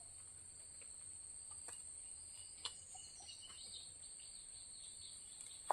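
Faint, steady high-pitched trilling of insects, with a few faint bird chirps and an occasional light click.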